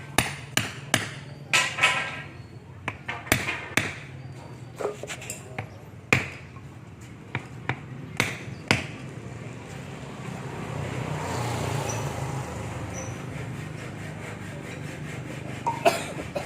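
Tools and metal pump parts knocking and clinking, a dozen or so sharp knocks in the first nine seconds and two more near the end, over a steady low hum.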